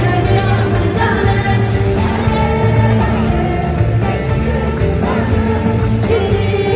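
Live performance of a Kurdish folk song: a woman singing over a band, with strong, steady bass notes underneath.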